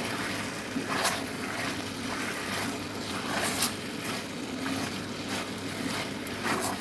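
Chicken pieces in a cornflour-thickened sauce sizzling steadily in a non-stick pan as they are stirred with a silicone spatula. There are a few short swishes and scrapes of the spatula through the sauce, about a second in, midway and near the end.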